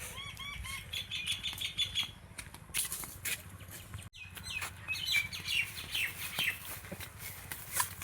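Birds chirping in quick runs of short, repeated calls, among scattered clicks and knocks; the sound breaks off sharply about four seconds in, then the chirping resumes.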